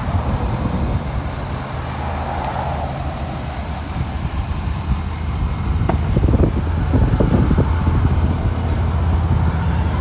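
6.7L Power Stroke V8 turbo diesel of a Ford F-350 idling with a steady low rumble, with a few short knocks a little past the middle.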